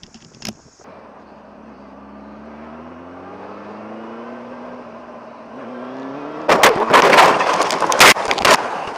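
Motorcycle engine accelerating, its pitch climbing steadily and dropping once for a gear change, then a loud crash: several hard impacts and scraping clatter over about two seconds near the end.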